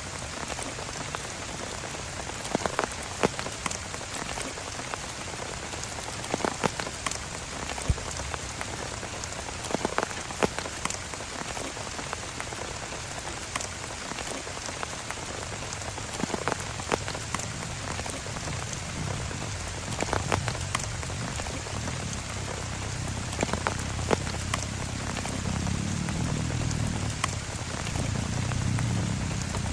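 Steady heavy rain, with many separate large drops landing in sharp taps on a close surface. A low rumble builds in the last few seconds.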